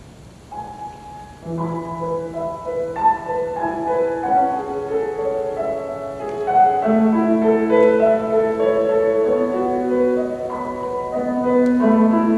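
A keyboard instrument playing slow music with held notes and chords. A single note sounds about half a second in, and chords fill out from about a second and a half.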